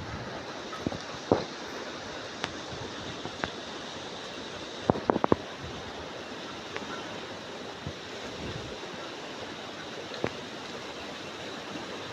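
Steady outdoor rushing noise, with scattered sharp clicks and knocks and a quick run of several clicks about five seconds in.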